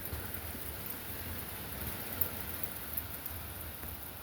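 Heavy rain falling steadily, an even hiss with faint scattered patter.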